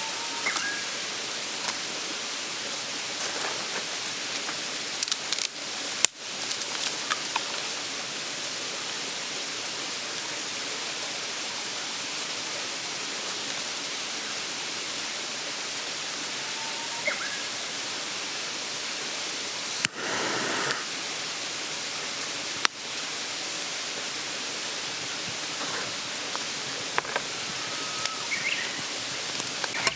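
Mountain stream babbling steadily, with a few faint short chirps over it.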